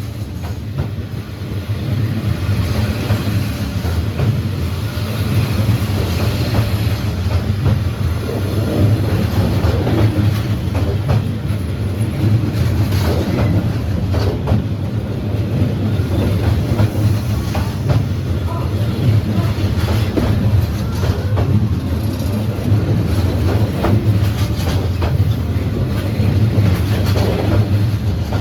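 A train rolling slowly past at close range along a narrow street-running track: a steady heavy rumble with wheels clacking over the rail joints.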